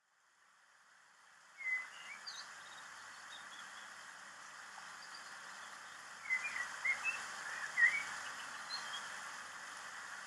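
Birdsong ambience fading in: small birds chirping over a steady outdoor hiss, with a cluster of chirps about two seconds in and a busier run of chirps around six to eight seconds in.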